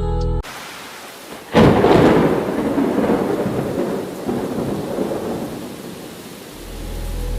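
Rain falling, then a sudden thunderclap about a second and a half in that rumbles and slowly fades over several seconds. A low steady hum sits under the very start and comes back near the end.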